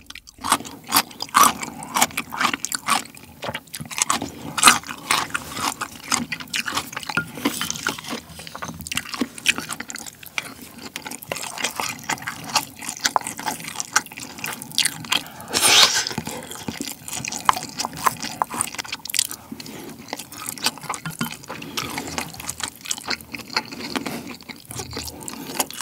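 Close-miked eating sounds: chewing a cube of pickled chicken radish, with many small irregular mouth clicks. Partway through, a wooden spoon scrapes a ceramic bowl as rice and sauce are scooped up.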